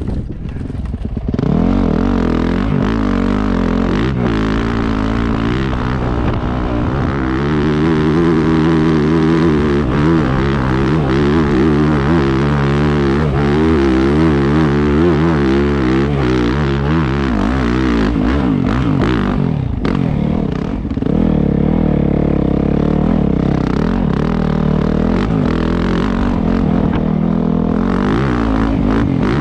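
Dirt bike engine under load on a hill climb, its revs rising and falling with the throttle and dropping off briefly about two-thirds of the way through.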